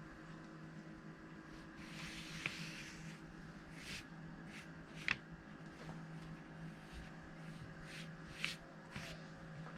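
Paintbrush working on paper: a few short, scratchy strokes and dabs, the loudest about halfway through, over a steady low electrical hum.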